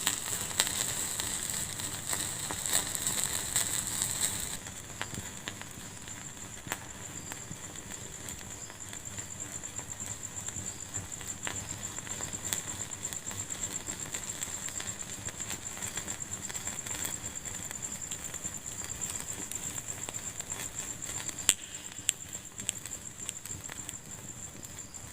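Wood fire in a fireplace crackling, with scattered pops and one louder pop about three-quarters of the way through. A hiss runs for the first four or five seconds, then dies away.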